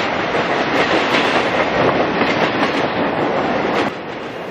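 A rail train of flatcars with steel rail racks rolls past, its wheels clattering over the rail joints under a steady rumble. The sound drops noticeably near the end.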